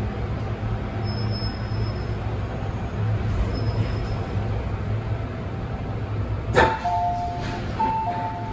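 MTR M-train car running with a steady low rumble and hum; about two-thirds of the way through, a sharp clunk, then an electronic chime of alternating higher and lower tones.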